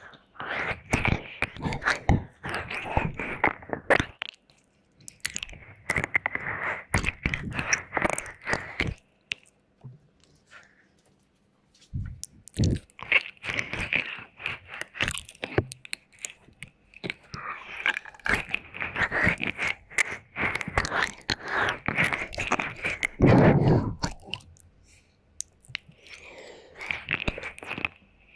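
Close-miked wet mouth sounds and licking on a binaural microphone: clusters of sticky clicks and smacks, broken by short pauses of a second or two.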